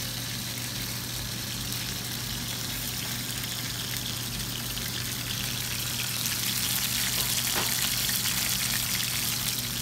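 Chicken breast searing in hot oil in a pan: a steady crackling sizzle, a little louder about six seconds in.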